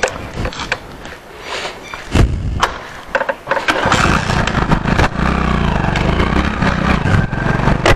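A Hero Splendor's small single-cylinder four-stroke engine is started and ridden off. There are a few clicks and knocks and a thud about two seconds in, then the engine catches about four seconds in and runs steadily with an even low putter as the bike pulls away.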